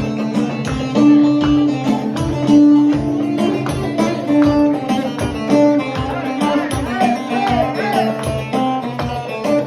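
Chaldean party music played loud by a band, a melody line of held notes over a steady drum beat.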